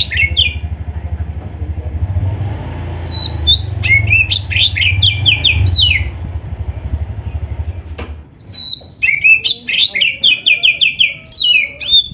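Oriental magpie-robin (kacer) singing: repeated phrases of a clear high whistle followed by quick runs of falling notes. A low rumble runs underneath and cuts off suddenly about eight seconds in.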